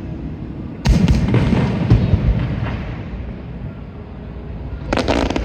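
Fireworks going off: a sharp bang about a second in, followed by a quick run of further bursts that fade away, and another burst near the end.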